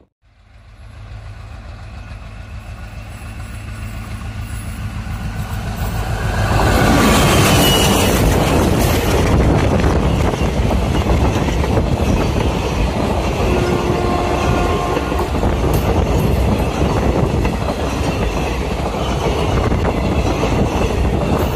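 Passenger train hauled by an ALCo-engined WDP3A (WDP2) diesel locomotive, approaching with a steady low engine drone that grows louder. About six seconds in the locomotive passes, and the coaches then rush past on the rails with a loud, continuous rumble.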